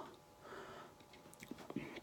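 A near-silent pause with a faint breath about half a second in, then a few small clicks near the mouth.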